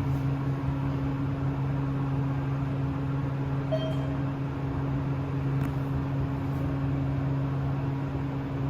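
Elevator cab travelling between floors: a steady low hum, with one short faint beep about four seconds in.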